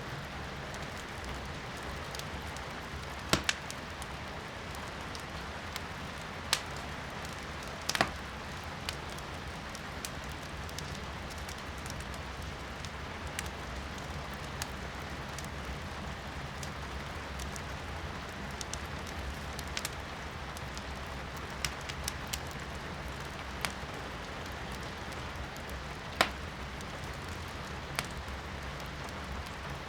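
Firewood crackling in a fireplace, with sharp pops, the loudest about three and a half, eight and twenty-six seconds in, over a steady hiss of rain heard from inside a room.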